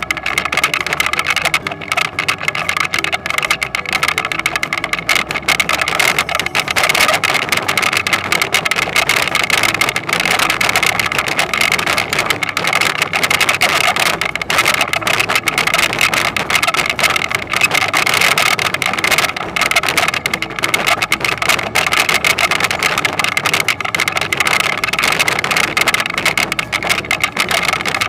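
Toyonoki potato harvester running steadily, its engine and moving parts making a continuous mechanical clatter.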